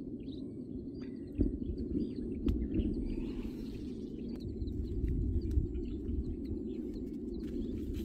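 Small birds chirping, with many short high chirps repeating, over a steady low rumble. Low thumps come in about a second and a half in.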